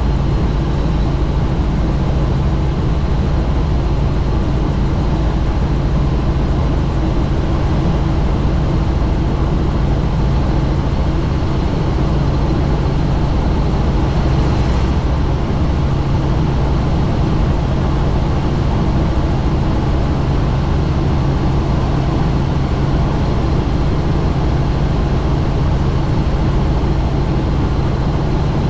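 Helicopter in flight heard from inside the open cabin: a steady drone of rotor and engine with wind rushing past the microphone, unchanging throughout.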